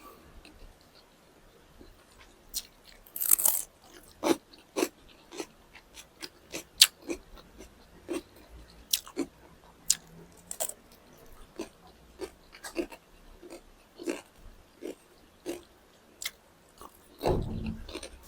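A person chewing and biting food, with a run of short crunches and wet mouth clicks, one or two a second, and louder crunches about three seconds in and near the end.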